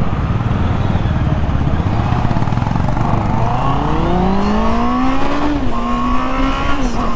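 Honda CB650R's 650cc inline-four engine accelerating hard, its pitch climbing steadily from about three seconds in, then stepping down twice near the end as the rider shifts up. Heavy wind rumble on the microphone.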